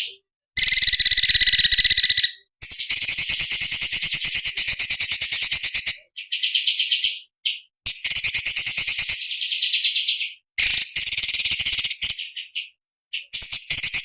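Cucak cungkok (leafbird) singing in loud, rapid trilled phrases. Each phrase is a fast run of sharp notes lasting one to three seconds, and the phrases are broken by short pauses.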